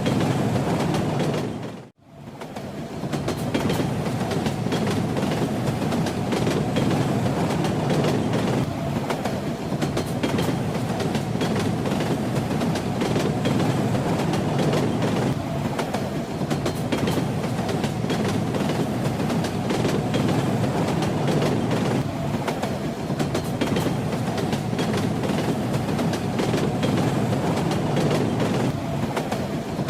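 Train running with a steady rumble and the wheels clattering over the rails. The sound fades out abruptly and comes back within about a second, about two seconds in.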